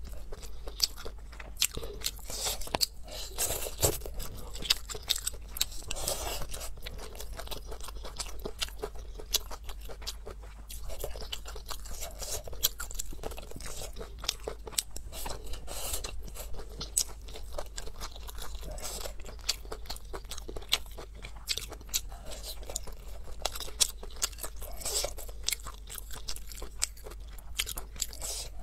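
A woman chewing mouthfuls of food, with many small, irregular crunching clicks.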